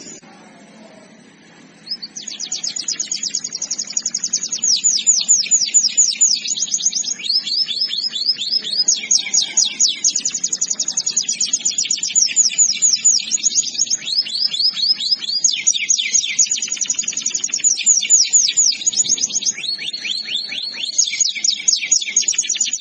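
Domestic canary singing a long rolling song of fast trills, each trill a rapid run of repeated notes sweeping down in pitch, the speed changing from phrase to phrase. The song starts about two seconds in.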